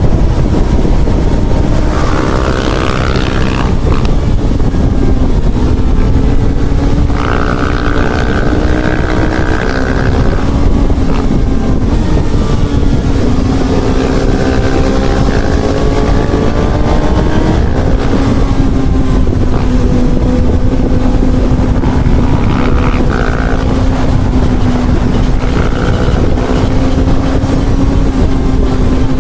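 Honda CB1000R inline-four motorcycle engine running at a steady cruising speed, its pitch drifting slightly up and down as the throttle changes, under heavy wind rush on the microphone.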